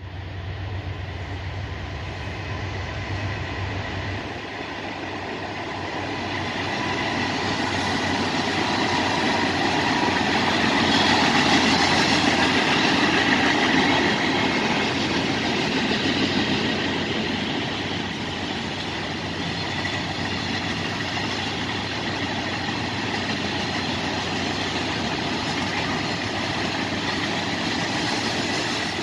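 CSX freight train's cars rolling past on the rails: a steady rumble of wheels on track that swells to its loudest about halfway through, then holds a little lower.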